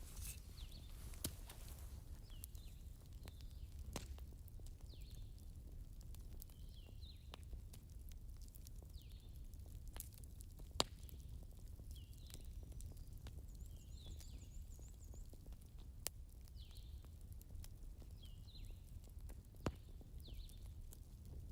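Campfire crackling: scattered sharp pops, a few louder than the rest, over a low steady rumble. A faint, soft sound repeats about once a second throughout.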